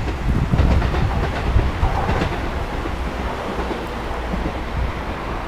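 Kiha 220 diesel railcar drawing away along the track, its wheels clacking over the rail joints at first, then a steady rumble of engine and wheels slowly fading as it recedes.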